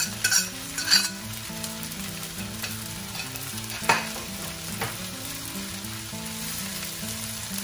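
Fried rice sizzling in a hot wok while a metal spatula stirs and scrapes through it. There are a few sharp clacks of the spatula against the wok, the loudest just at the start and about four seconds in.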